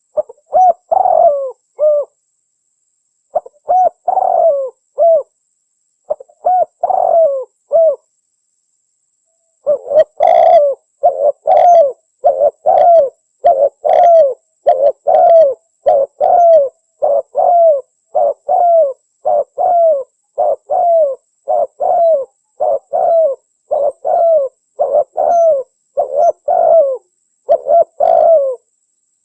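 Spotted dove (tekukur) cooing, a recorded lure call for attracting wild doves. A few short phrases of coos with gaps, then from about ten seconds in a long, even run of repeated coos.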